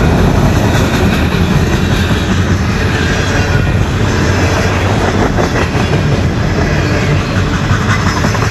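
CN freight train rolling past close by: a steady, loud rumble of the cars' wheels on the rails, with the clickety-clack of wheels over rail joints.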